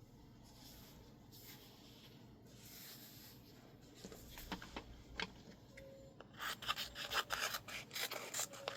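Masking tape rubbed down onto a sheet of label paper, a soft papery brushing that turns into louder, rapid scratchy rubbing strokes for the last couple of seconds.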